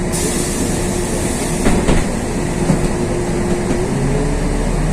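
Inside a LiAZ 6213.22 articulated city bus standing at a stop: a sudden burst of compressed-air hiss from the pneumatic system right at the start fades over about a second, over the steady hum of the bus idling. Near the end a deeper rumble rises as the engine takes up load.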